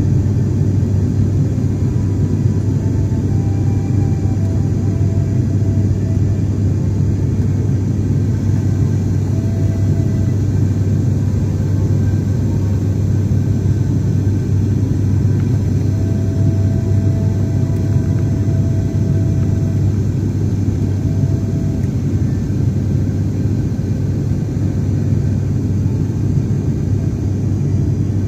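Airliner cabin noise in flight: a steady, loud low rumble from the engines and airflow, holding even throughout.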